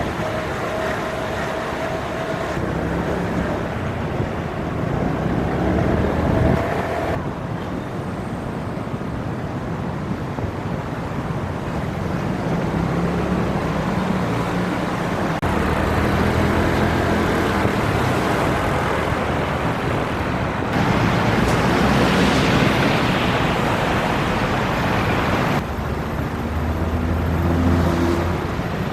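Motorcycle engine running under way with wind and road noise on the camera microphone, the engine pitch shifting up and down; the sound changes abruptly several times.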